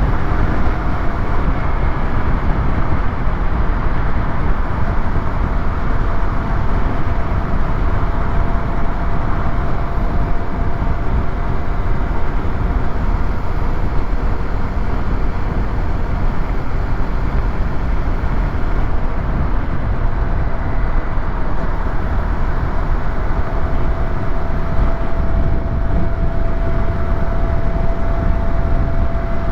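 Yamaha YZF-R125's single-cylinder four-stroke engine running at a steady pace on the move, mixed with heavy wind rush on the helmet-mounted camera's microphone.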